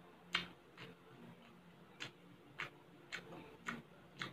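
Close-up chewing of baked mussels: wet mouth clicks and smacks, about seven sharp ones at uneven intervals.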